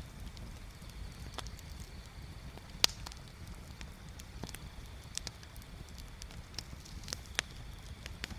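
Wood bonfire crackling: irregular sharp pops and snaps, with one loud pop about three seconds in, over a steady low rumble.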